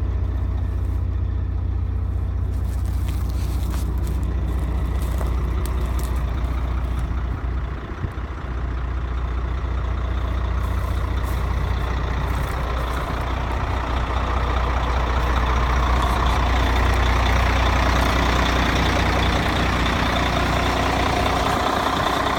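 Diesel engine of a 1993 International 2674 grain truck running steadily with a strong low hum. Its level dips briefly about eight seconds in, and a louder, harsher mechanical noise builds through the second half.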